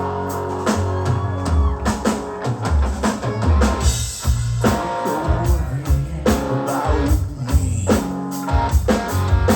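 Rock band playing an instrumental passage between sung lines: drum kit, guitar and bass. A held chord gives way to a busy drum pattern about a second in.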